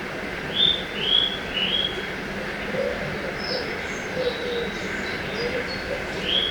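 Forest birds calling over a steady rush of river water. Three loud chirps come in quick succession near the start, and from about halfway there are fainter high notes and a low, wavering cooing.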